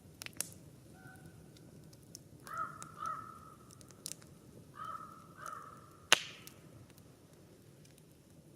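Campfire crackling with scattered sharp pops, one much louder pop about six seconds in. A bird calls four times in two pairs through the middle of the stretch.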